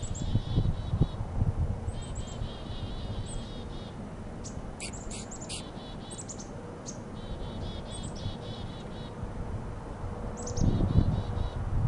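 Small birds calling: short runs of quick repeated chirps and a few high thin notes, over a low wind rumble on the microphone that swells about ten seconds in.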